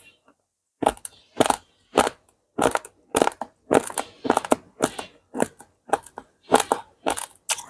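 A person chewing a mouthful of hard, uncooked dried corn rice, the grains crunching loudly between the teeth about two or three times a second. The chewing starts about a second in.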